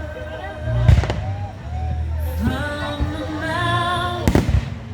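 Fireworks bursting, a sharp bang about a second in and another near the end, over music with singing.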